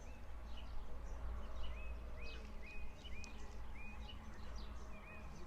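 Small birds chirping in short, repeated calls, roughly two a second, over a steady low rumble.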